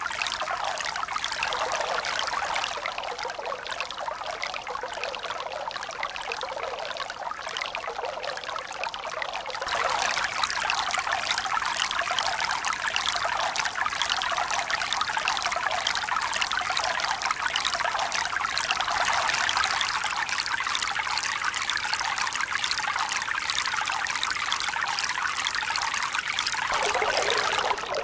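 A steady rush of running, splashing water with no swell-and-fall rhythm; it becomes louder and brighter about a third of the way in.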